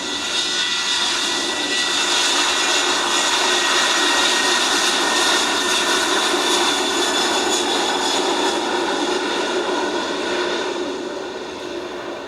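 Jet airliner passing with its engines running, a steady rushing noise laced with a high turbine whine, building through the middle and fading over the last couple of seconds.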